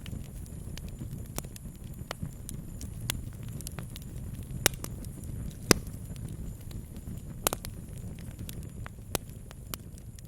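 Wood campfire crackling, with irregular sharp pops, a few much louder than the rest and the loudest a little past the middle, over a low steady rumble.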